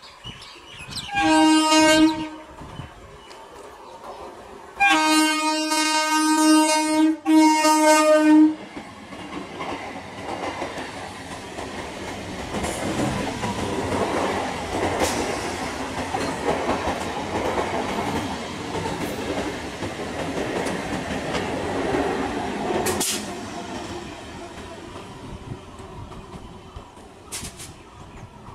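An electric multiple unit (EMU) local train sounds its horn: a short blast, then a long blast broken briefly in the middle. The train then runs past at speed, the noise of its wheels on the rails swelling for about fifteen seconds before falling away.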